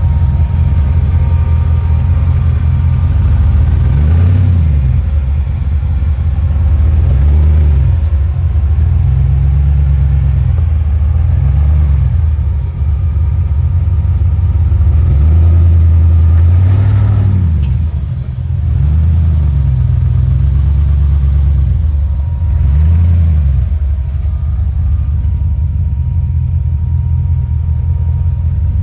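Jeep Comanche pickup's engine running under load on an off-road trail, revving up and easing off again and again as it is driven over the terrain.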